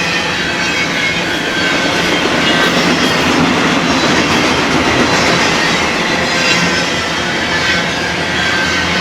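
Freight train cars rolling past on the rails: a loud, steady noise of wheels on track with a faint high-pitched wheel squeal running through it.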